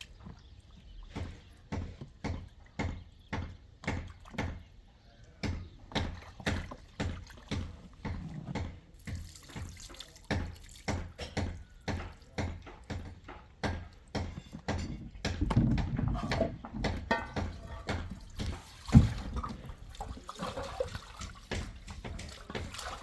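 Water sloshing or splashing in a steady rhythm, a little under two strokes a second, then more irregular splashing with one sharp knock about nineteen seconds in.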